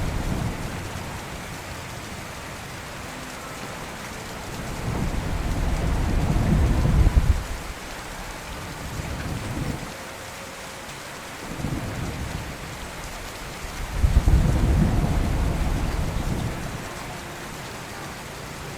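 Steady rain with thunder rumbling in repeated rolls. One roll builds for a few seconds and cuts off sharply about seven seconds in. Two short rolls follow, then a long one begins about fourteen seconds in.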